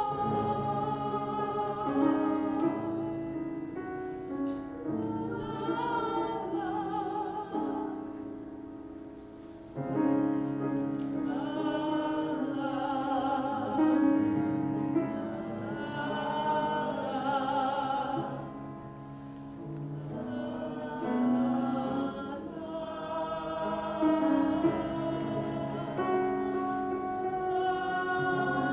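Live classical vocal music: a trained voice singing with vibrato over instrumental accompaniment, in phrases that swell and ease off.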